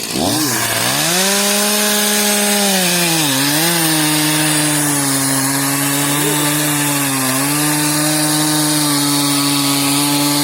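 Two-stroke chainsaw revving up to full throttle and cutting wood, its engine pitch dipping briefly twice as the chain loads up in the cut.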